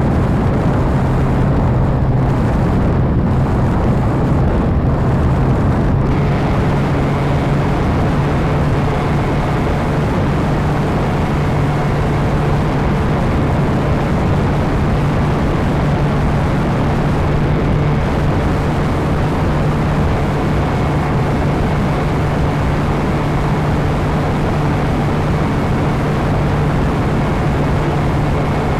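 RC model airplane in flight: its motor and propeller running steadily under a heavy rush of wind on the microphone, with a faint high whine coming in about six seconds in.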